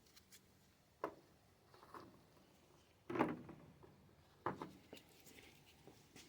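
Four brief knocks and scrapes of work handling, the loudest about three seconds in, while old paint is being stripped from the ride-on train's pedal handles.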